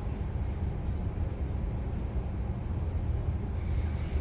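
Regional passenger train running, heard from inside the carriage: a steady low rumble of wheels on track with even running noise.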